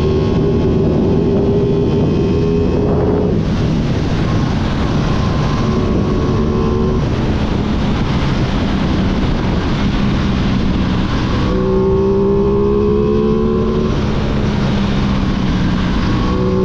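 Aprilia sport motorcycle engines running under throttle, their pitch stepping and sliding up and down, over a steady rushing noise.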